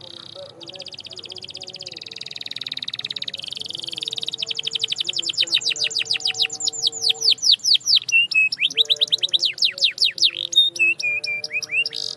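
Canary singing: a fast buzzy trill, then a long run of rapid down-sweeping notes that slows toward the end into separate short notes.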